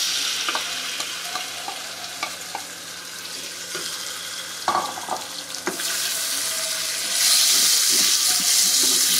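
Raw chicken cubes sizzling in hot oil in a nonstick wok, stirred with a wooden spoon that knocks and scrapes against the pan. The sizzling grows louder about seven seconds in.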